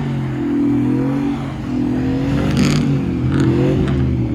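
A vehicle engine revving hard, its pitch rising and falling again and again as it is pushed through the snow.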